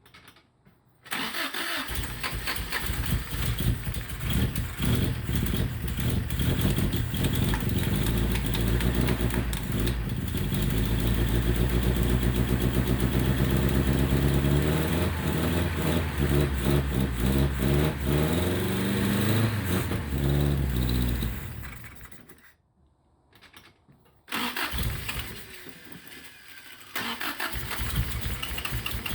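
1977 Toyota Celica's 20R/22R hybrid four-cylinder engine on a Weber 32/36 carburetor starting suddenly, running and revving for about twenty seconds, then slowing and dying, which the owner thinks is the carburetor running out of fuel. A few seconds later a quieter noise follows.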